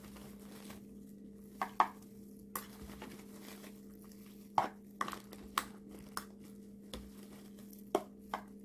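A spoon scooping seafood-boil sauce and food out of a pan: scattered light clinks and knocks, about one a second, over a steady low hum.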